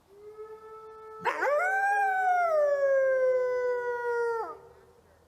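Wolf howling: a faint, long, level howl, then from about a second in a loud howl that rises quickly and slides slowly down in pitch before breaking off.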